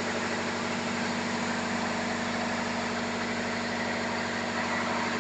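Ship's engine-room diesel engines running steadily: a loud, even drone with a fast regular throb, echoing in the enclosed engine room.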